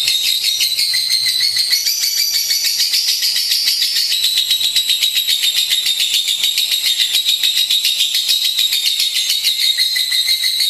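Lovebird singing in a long, unbroken, high-pitched chatter of rapid notes, many a second.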